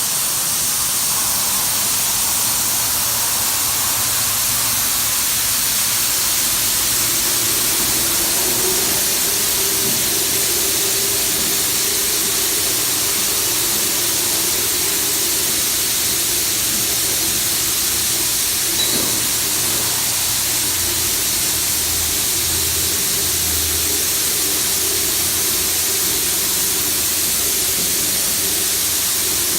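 High-pressure water jets of a touch-free automatic car wash spraying steadily, a loud even hiss, with a low steady machine hum joining about six seconds in.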